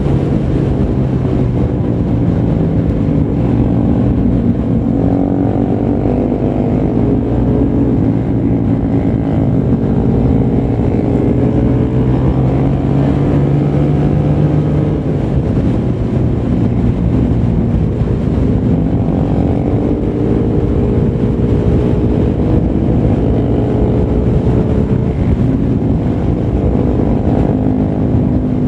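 Suzuki Raider 150 FI motorcycle engine running under way, its pitch rising and falling as the revs change.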